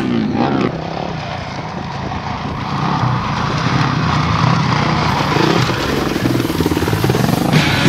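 Off-road motorcycle engines racing past: a pitch drops away in the first second as one bike passes, then a buzzing engine note grows louder as another bike approaches.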